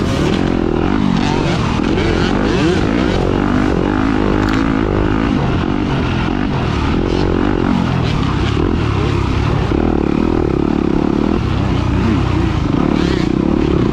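Off-road dirt bike engine revving up and down continually under racing load, its pitch rising and falling with the throttle.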